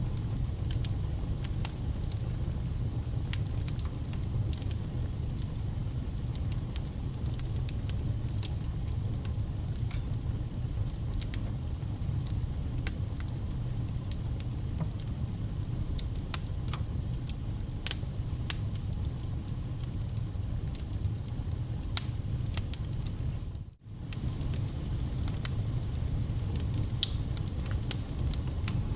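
Wood fire burning: a steady low rumble and hiss of flames with frequent irregular crackles and pops from the burning logs. The sound cuts out for a split second about three-quarters of the way through.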